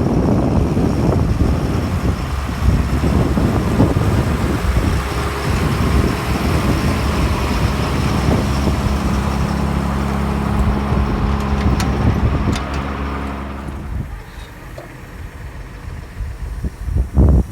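John Deere 7130 tractor's diesel engine running steadily, then dropping noticeably quieter about fourteen seconds in.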